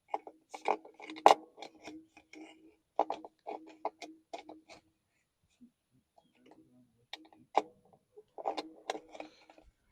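Irregular light clicks and knocks from a plastic funnel being handled and set into an excavator's engine oil filler neck: a cluster through the first few seconds, a quieter gap, then another cluster near the end.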